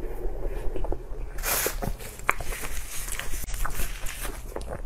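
Close-miked wet chewing and lip smacking, with sticky clicks and the crinkle of plastic gloves as sauce-glazed braised meat is pulled apart by hand, over a steady low hum.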